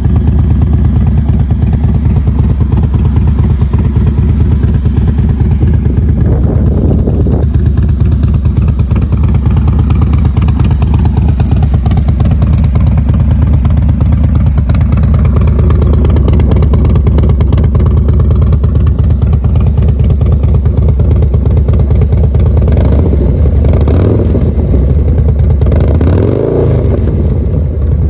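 2009 Harley-Davidson Dyna Super Glide Custom's 96-cubic-inch Twin Cam V-twin running steadily through a Vance & Hines 2-into-1 exhaust. The engine's pitch briefly rises and falls a couple of times near the end.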